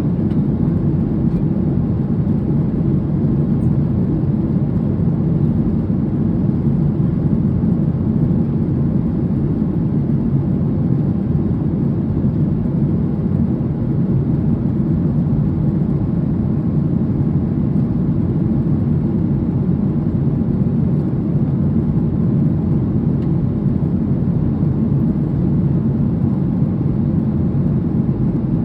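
Steady cabin noise of a Boeing 737 airliner in flight: an even, low jet-engine and airflow rumble that holds unchanged throughout.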